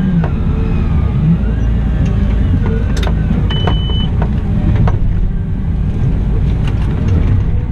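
Cat 972M XE wheel loader's diesel engine running under work, its note wavering up and down, with a few clicks and one short high beep about three and a half seconds in.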